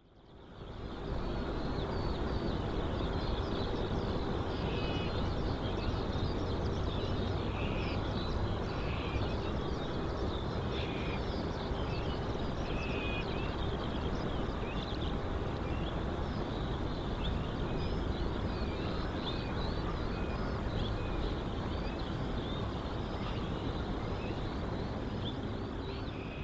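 Outdoor ambience that fades in over the first second: small birds chirping repeatedly over a steady low rumble, likely distant aircraft or traffic noise.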